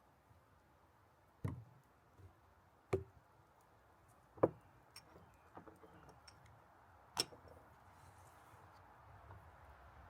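Knife chopping on a cutting board in slow single strokes: four sharp knocks, the first three about a second and a half apart, the last after a longer pause, with faint small clicks between.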